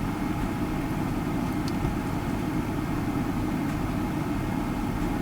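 Steady low background rumble with no distinct clicks or knocks.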